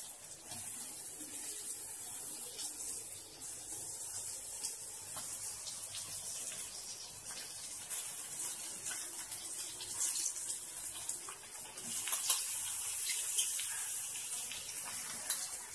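Hot oil sizzling and crackling in a kadai as whole quail are fried in onion-tomato masala, a steady hiss with many small pops that grows a little louder about twelve seconds in.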